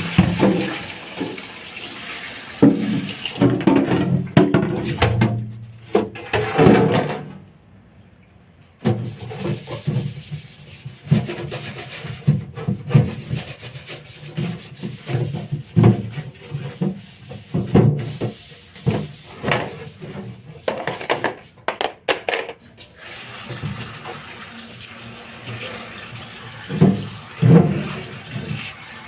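Water running at a sink while things are scrubbed and handled, with rubbing and scraping and some knocks; the sound drops away for about two seconds roughly a quarter of the way in.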